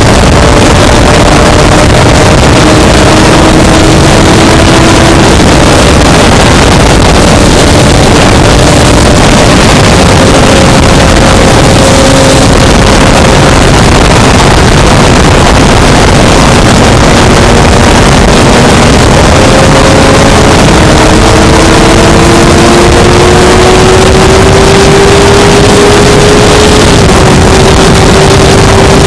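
Honda CBR600F inline-four sport bike riding at speed: heavy, constant wind rush over the microphone, with the engine note underneath. The engine pitch rises steadily, then steps down near the end.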